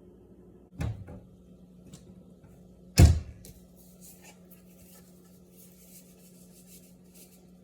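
Two knocks about two seconds apart, the second much louder, over a steady low hum, followed by a scatter of faint light ticks.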